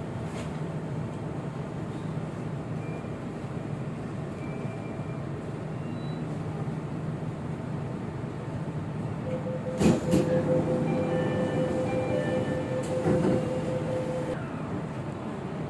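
Jakarta MRT train running, heard inside the carriage: a steady rumble and hum. About ten seconds in there is a sharp knock, with a lighter one a few seconds later, and a steady whining tone runs for about five seconds around them.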